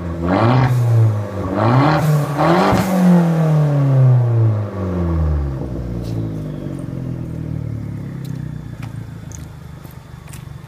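2013 Dodge Dart with a straight-piped exhaust revved in several quick blips, the pitch rising and falling each time, then the revs dropping back toward idle. As it settles, the exhaust gives scattered crackling pops, like Rice Krispies.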